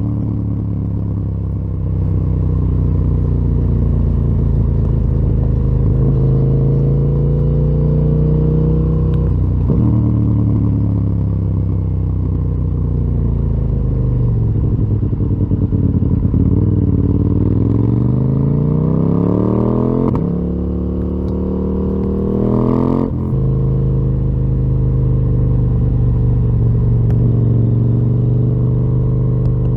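KTM 890 Duke R's parallel-twin engine breathing through a full Akrapovic exhaust system while riding, revving up and down through the gears. The pitch climbs and falls repeatedly. It steps down sharply twice, about a third of the way in and about three-quarters in, then runs at a steadier engine speed near the end.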